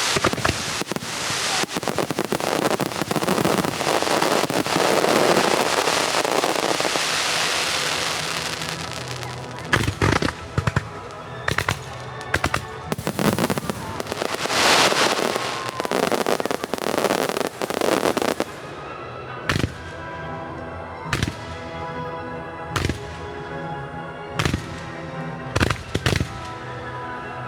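Fireworks starmine barrage: a dense run of shell bursts and crackling for the first several seconds, thinning into separate sharp bangs. In the last third, music from loudspeakers is heard, with a single firework burst every second or two over it.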